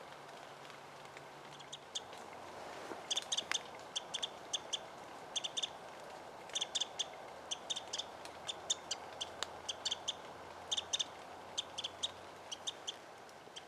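A small bird giving short, high chip notes in quick clusters, starting about three seconds in and going on almost to the end.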